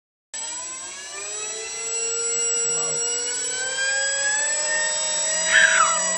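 Radio-controlled model airplane's motor and propeller running up, its whine rising slowly in pitch and then holding steady. There is a brief chirping sound near the end.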